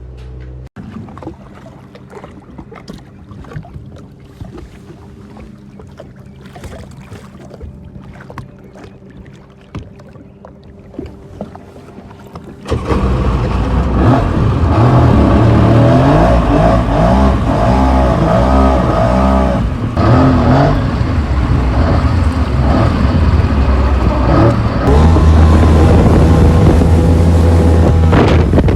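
Jet ski engine running on the water: a lower rumble with scattered knocks at first, then about halfway through it turns suddenly loud, its pitch rising and falling as the throttle is worked.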